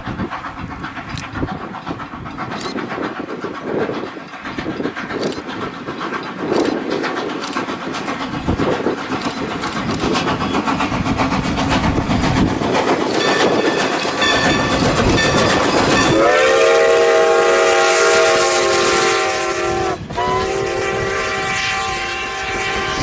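Train passing, its rumble and wheel clicks growing louder, then a long chord of several notes from its whistle or horn sounded about two-thirds of the way in, cut off briefly and sounded again.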